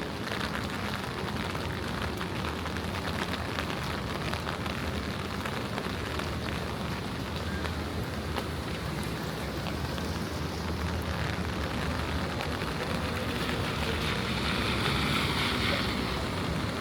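Steady rain falling on wet city pavement, with many small drops ticking, over a low rumble of distant traffic. A hiss swells for a couple of seconds near the end.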